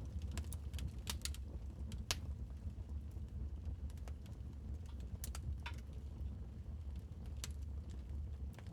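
Wood fire crackling in a fireplace: irregular sharp pops and snaps over a steady low rumble. The loudest snap comes about two seconds in.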